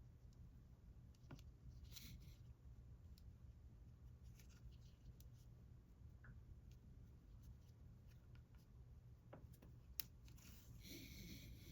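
Near silence with faint ticks and rustling from a crochet hook working yarn, a sharper click about ten seconds in and a brief rustle near the end.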